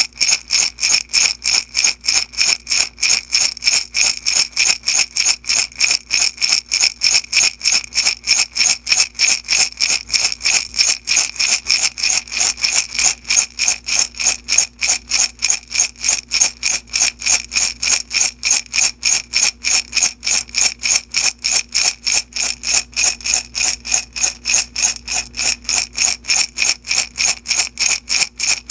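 Small beads shaken steadily back and forth in a glass jar, rattling against the glass in an even rhythm of about three shakes a second, with a bright glassy ring.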